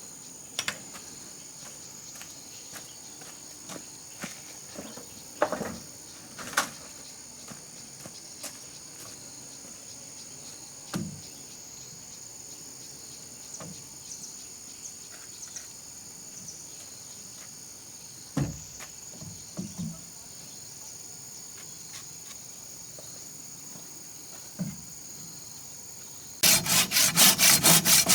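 Insects, likely crickets, chirring steadily high up, with a few scattered knocks of wood. About two seconds before the end, a hand saw starts cutting wood in quick back-and-forth strokes, much louder than the rest.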